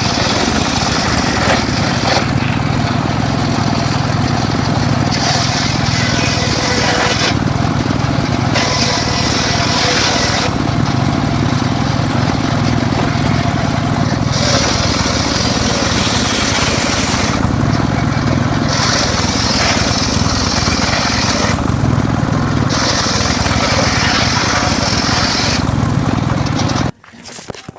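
Homemade circular saw rig running under power, its blade cutting mahogany in repeated passes: a steady low motor drone under a harsh high cutting noise that eases off briefly every three to four seconds between cuts. The sound stops abruptly near the end.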